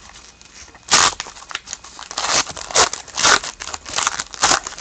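Hockey trading cards being handled and slid one past another, a series of short rustling swipes. The loudest comes about a second in, and several more follow in the second half.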